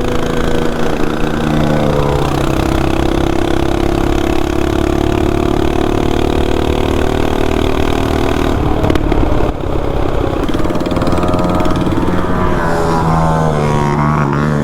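Small gas engine running under throttle: revs climb about two seconds in and hold steady for several seconds, dip briefly, then climb again near the end.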